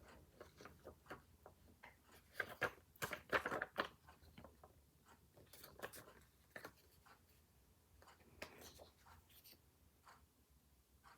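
Scattered small clicks, taps and paper rustles of stationery being handled on a planner page. They are busiest and loudest from a little over two seconds in to about four seconds.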